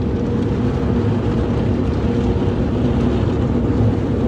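Automatic car wash machinery running: a steady low noise with a constant hum throughout.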